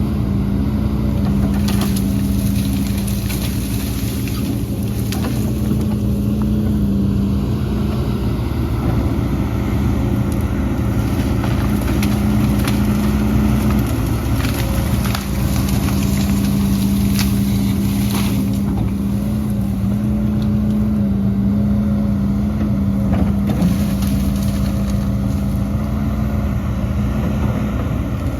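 Heavy diesel machinery engine running at a steady speed with a constant hum, with scattered knocks and clatter throughout.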